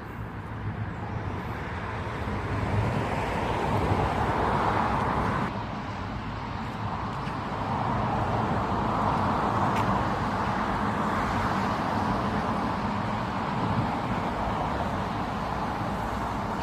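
Road traffic: vehicles passing, the noise swelling to a peak about four to five seconds in and again around nine to ten seconds, over a steady low engine hum.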